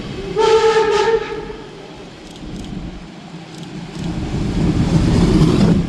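A rail vehicle's horn sounds one short blast, then the low rumble of the rail vehicle builds up as it moves, cutting off sharply near the end.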